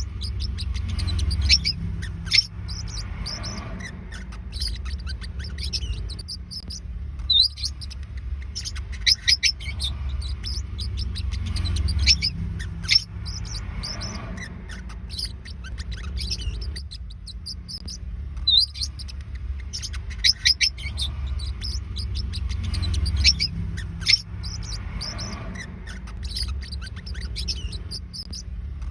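Forpus parrotlets chirping and twittering with many quick, high, sharp calls in clusters, over a steady low rumble.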